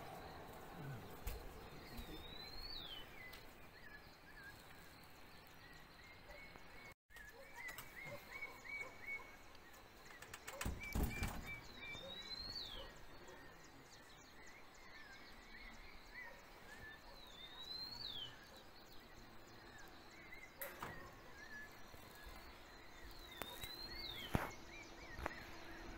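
Faint outdoor ambience with birds calling: a short high whistled call that dips and then rises and falls, repeated about four times several seconds apart, with softer strings of chirps between. A few soft knocks, the loudest near the middle.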